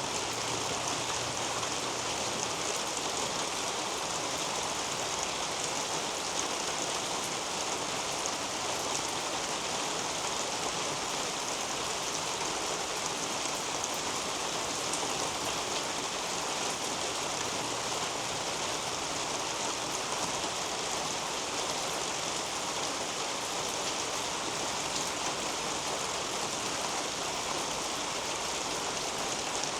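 Steady rain falling on the leaves of a garden canopy: a constant even hiss dotted with many small drop taps.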